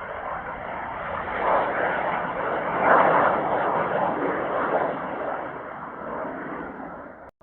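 Kawasaki T-4 jet trainer's turbofan engines passing overhead, the jet noise swelling to a peak about three seconds in and then fading, before it cuts off suddenly near the end.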